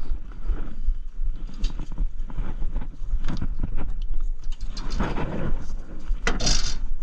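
Irregular knocks, clunks and scraping of hands-on work installing heavy truck batteries, over a constant low rumble from a body-worn microphone, with the loudest scraping near the end.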